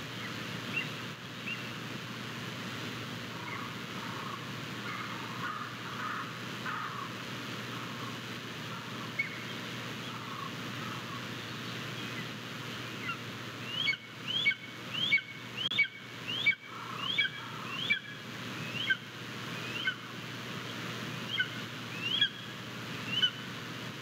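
A bird calling: soft chirps at first, then from about halfway a run of short, rising high chirps, roughly two a second, that thin out near the end, over a steady hiss.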